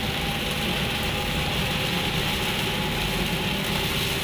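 Heavy rain falling steadily, over the low, even rumble of a vehicle's engine and road noise.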